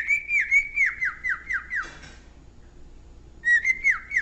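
Cockatiel whistling a fast run of short notes, each sliding down in pitch, about five a second. The run breaks off about halfway through after a brief rasp, and a second run starts near the end.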